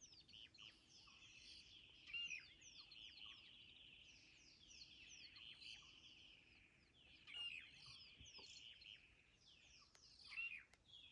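Faint birds chirping and twittering in a steady stream of short, high notes, with a few louder calls about two, seven and ten seconds in.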